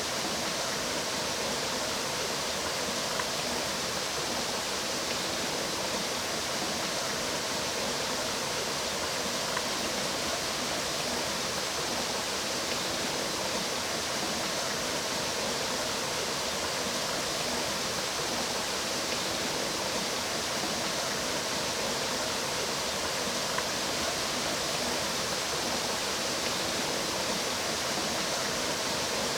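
Water of a mountain stream flowing, a steady, even rushing.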